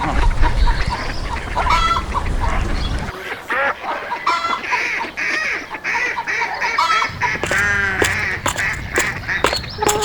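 Geese and ducks honking and quacking in many short calls one after another, over a low rumble that drops away for a few seconds in the middle.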